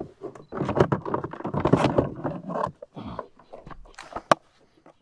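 Knocking, rattling and rustling on a plastic kayak as a large redfish is handled and laid out to be measured, busiest in the first three seconds, with one sharp click near the end.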